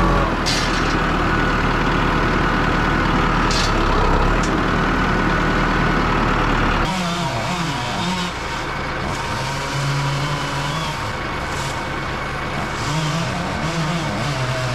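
Engine of a heavy machine working hard as it drags a large felled tree. The sound changes abruptly about halfway through, and after that the engine pitch wavers up and down as the load varies.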